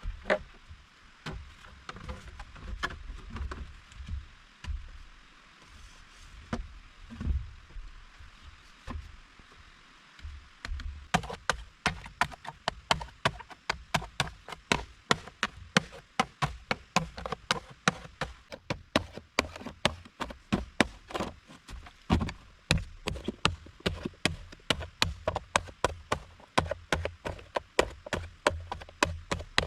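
Repeated strikes of a tool on wood, as in chopping or hammering during shelter building: a few scattered knocks at first, then a fast, even run of about three strikes a second from about eleven seconds in, over a faint steady hiss.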